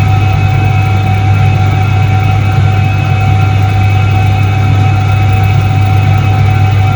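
Soviet Iset-3 washing machine from 1978 running steadily: a strong, constant low hum with a fainter steady whine above it, unchanging throughout.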